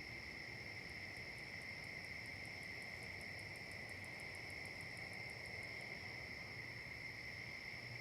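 Insect chorus: a faint, steady high-pitched trilling. A second, higher-pitched insect pulses about six times a second from about a second in until about six seconds in.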